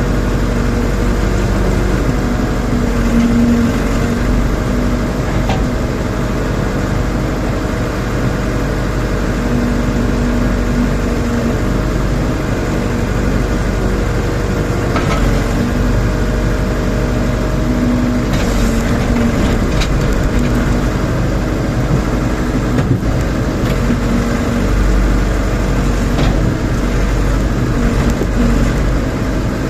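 Rondon backhoe loader's diesel engine running steadily as the machine works, with a few brief knocks along the way.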